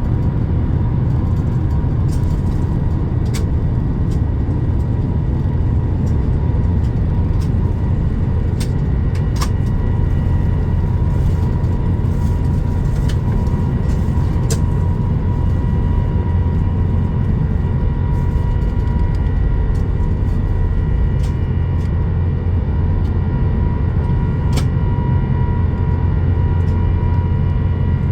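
Airbus A350-900 cabin noise during take-off: the Rolls-Royce Trent XWB engines under high thrust give a steady deep roar with a steady high hum over it, and the cabin gives scattered short clicks and rattles.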